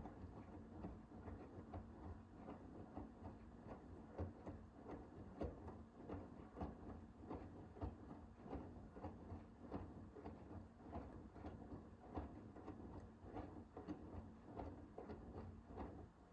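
Hoover H-WASH 500 front-loading washing machine tumbling its drum during the wash phase of a Cotton 60 cycle: a faint motor hum under many irregular soft knocks and clicks as the wet laundry turns and drops.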